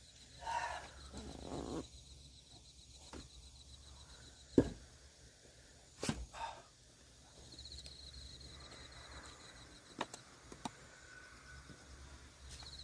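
Axe chopping firewood: one sharp, loud strike about four and a half seconds in, a second about a second and a half later, and lighter knocks near the end. A short breathy vocal sound comes near the start, and an insect trills faintly in the background.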